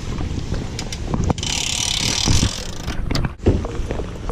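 Gusty wind buffeting the microphone during a thunderstorm, with irregular knocks and clatter of gear, and a burst of hiss about a second and a half in.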